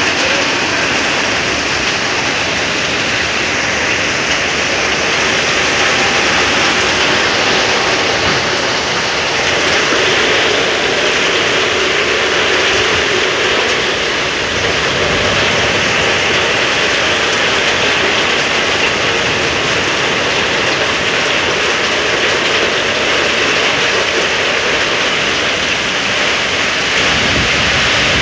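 Heavy rain of a severe thunderstorm pouring down, a loud, steady rush of noise.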